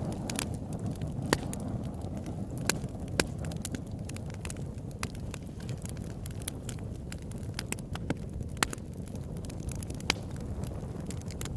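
Wood campfire burning with a steady low rush of flame, crackling with irregular sharp pops, a handful of them louder than the rest.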